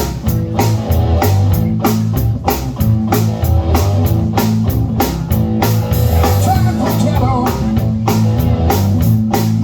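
Live blues band playing a shuffle-style groove: drum kit striking about four times a second over a steady bass line, with guitar. A wavering lead line with bent notes comes in about six seconds in.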